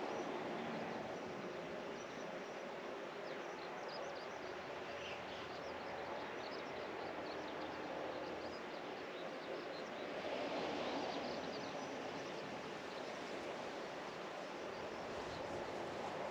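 Steady outdoor ambience: an even background rush, swelling briefly about two thirds of the way through, with scattered faint high bird chirps.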